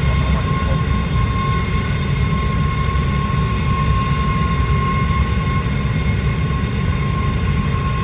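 Aircraft engine held at full power during an engine run: a steady, loud rumble with a constant high whine on top.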